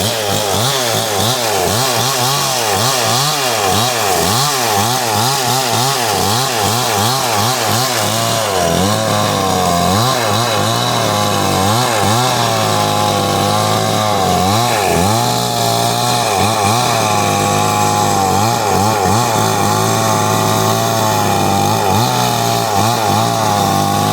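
Two-stroke chainsaw running hard, its engine pitch rising and falling again and again, with quick wobbles at first and slower, deeper dips later on.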